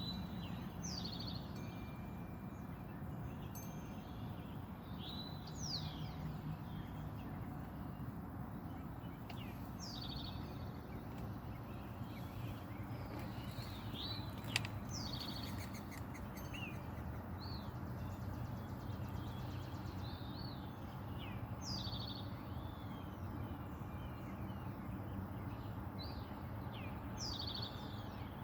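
Songbirds chirping and singing in short repeated phrases, over a steady low background rumble, with one sharp click about halfway through.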